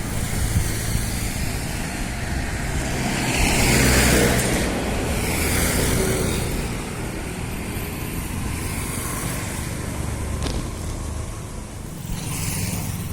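Road traffic going by: a steady low engine rumble, with vehicles passing that swell and fade about four and six seconds in.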